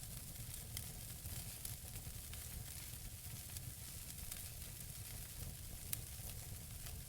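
Wood fire burning in a fireplace: a steady hiss with frequent irregular sharp crackles and pops from the burning logs, over a low rumble of the flames.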